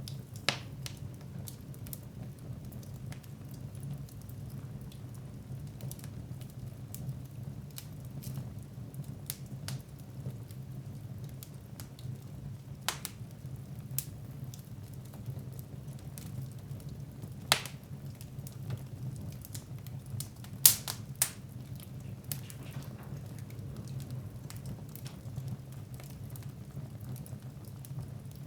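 Wood fire burning in a fireplace, crackling with scattered sharp pops over a low, steady rumble; the loudest pops come about two-thirds of the way through.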